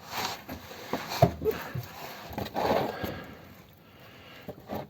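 A few sharp knocks and short scrapes of objects being handled, the loudest knock about a second in, with a longer scrape a little before the midpoint.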